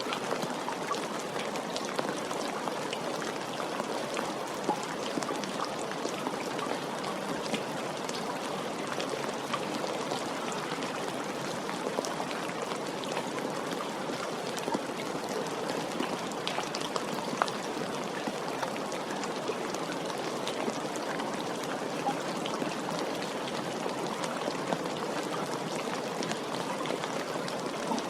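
Steady, gentle rain falling, with many individual drops ticking sharply on surfaces through the even hiss.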